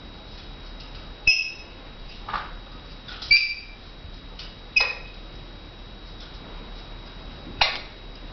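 Indian ringneck parakeets giving about five short, sharp calls spaced a second or more apart, some dropping steeply in pitch.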